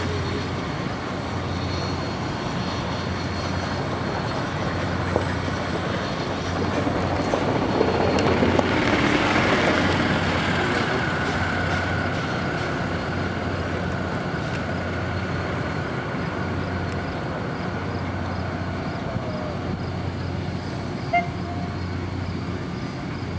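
Lehigh Valley Coal Company 126, a 0-6-0 tank steam locomotive, running. Its noise swells about seven seconds in, is loudest around eight to ten seconds, then eases off.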